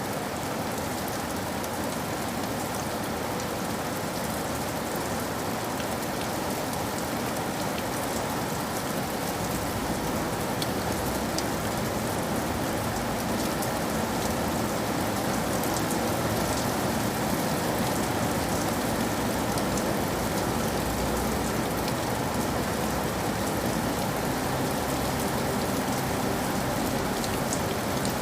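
Steady rain falling on a surface: a dense, even hiss with scattered drop ticks, growing slightly heavier about halfway through.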